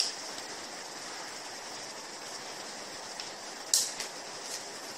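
Steady hiss of rain, with a short sharp crackle of a plastic sachet being torn open about three and a half seconds in.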